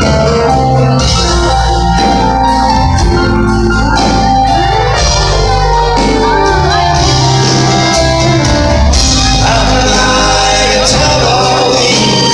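Live country band playing loudly with a male lead vocal singing over it.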